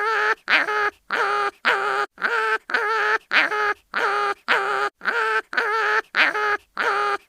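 Cartoon animal pain cry sound effect: a short, nasal, wavering yelp repeated over and over, almost twice a second, each cry the same as the last.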